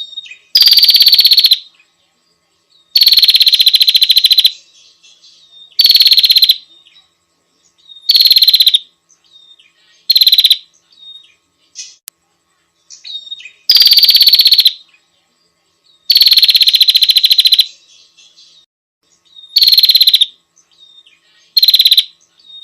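Female prenjak (prinia) calling: a buzzy, rapidly pulsed trill about a second long, repeated nine times at two- to three-second intervals, with faint chirps in between. It is the female's call to a male, used as a lure.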